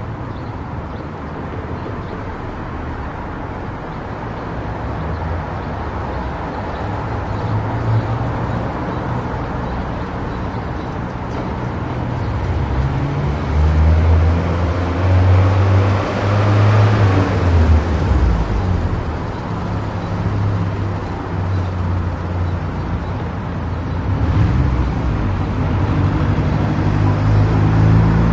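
Car driving on an expressway: steady tyre and road noise with a low engine rumble. The noise swells louder for a few seconds just past the middle, then settles back.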